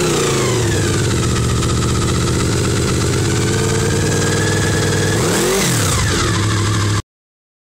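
Honda VFR800Fi V4 engine breathing through a Beowulf aftermarket muffler: idling as the revs fall back at the start, with one quick throttle blip about five and a half seconds in. The sound cuts off abruptly near the end.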